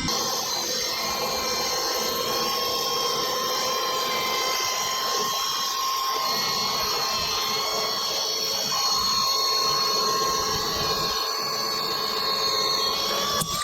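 Logosol E5 speedsaw, an electric chainsaw unit on an M8 sawmill, running at a steady high-pitched whine as it saws along a log. There is a short click near the end.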